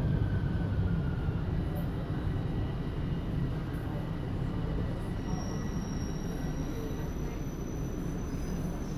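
Toronto Line 1 subway train rumbling as it slows, the rumble slowly fading. A thin high squeal comes in about halfway through and holds, rising slightly.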